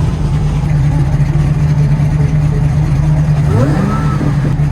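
Loud, steady running of a drift car's engine at idle, with a brief rising sound about three and a half seconds in.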